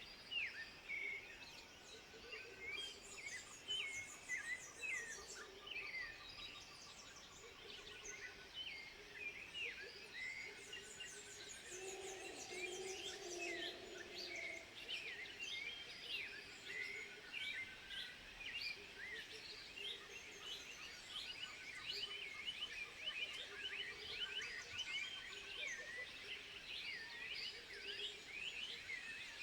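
Dense chorus of rapid chirping bird calls, many short notes overlapping throughout, with a lower, longer call about twelve seconds in.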